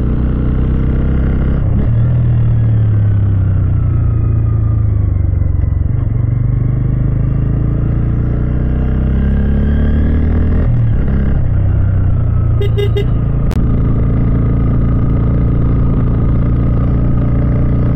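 Bajaj Pulsar N160 motorcycle engine running under load on a narrow, climbing road. Its pitch rises and falls with the throttle, and about eleven seconds in there is a short break and drop in revs, as at a gear change. A couple of brief clicks come a little later.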